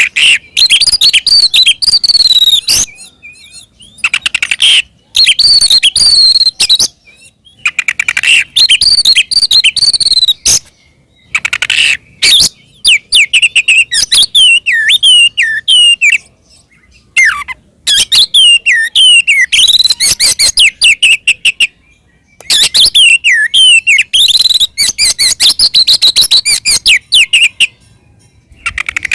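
Oriental magpie-robin singing a loud, full fighting song in bursts of rapid whistles, sweeping glides and chattering trills, each burst a second to a few seconds long with short pauses between.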